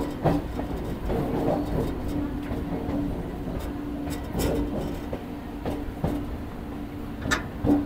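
Electric local train (EMU) running on the track, heard from an open carriage doorway: a steady rumble of wheels on rails, with scattered sharp clicks and a steady hum that comes and goes.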